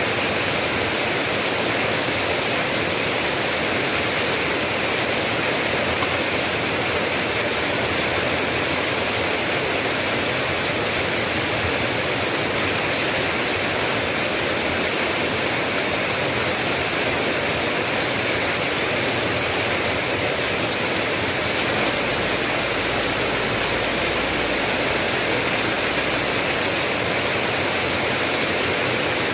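Steady heavy rain, a dense, even hiss of falling water with no separate drops standing out.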